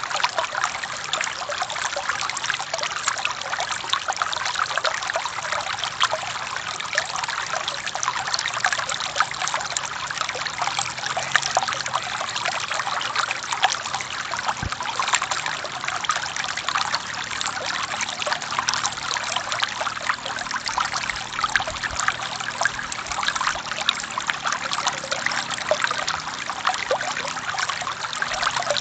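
Forest river or stream flowing and trickling over rocks, a steady splashing rush of water.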